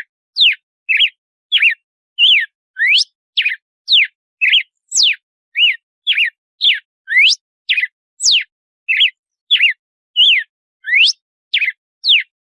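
Red-cowled cardinal (galo-de-campina) singing its 'açoite' song: a steady run of short, clear whistled notes, a little under two a second, each a quick slide up or down, varying from note to note. The song begins abruptly at the start after silence.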